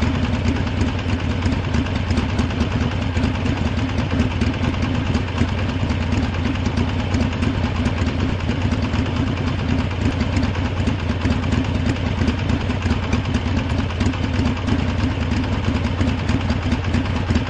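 Harley-Davidson motorcycle engine idling steadily, with a fast, even pulsing beat.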